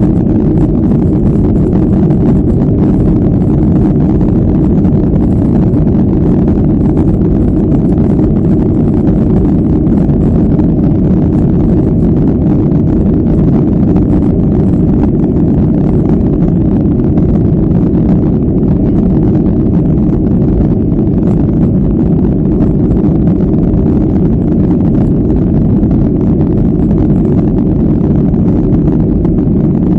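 Boeing 737-400's jet engines running, a steady, loud, deep noise with little high-pitched content and no change in level.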